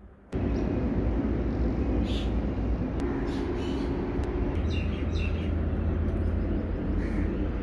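Outdoor ambience that cuts in abruptly just after the start: a steady low rumble with birds chirping now and then over it.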